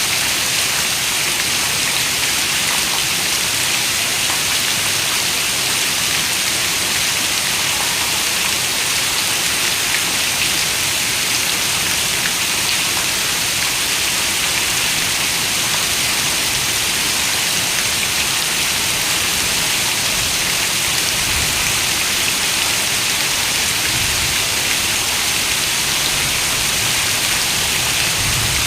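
Heavy rain pattering steadily on a window, a dense even hiss, with a few faint low rumbles in the last third.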